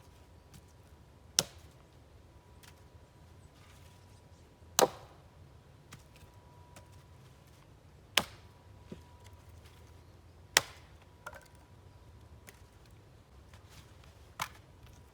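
Wood being chopped: sharp single blows every two to four seconds, four of them loud and a fifth lighter near the end, with a few faint knocks between.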